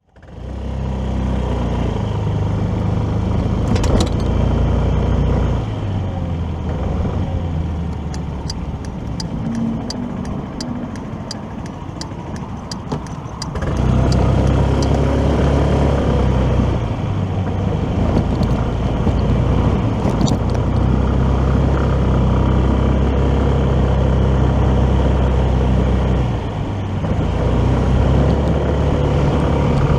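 Motorcycle engine running while riding, with road and wind noise. It eases off for several seconds, during which a run of quick ticks is heard, then pulls harder again at about the halfway point.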